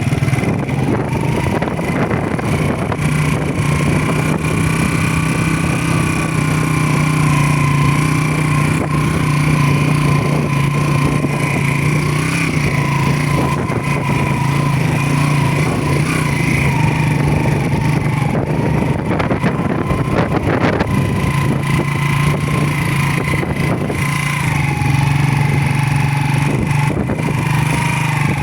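Motorcycle engine running at a fairly steady speed, its pitch dipping slightly now and then.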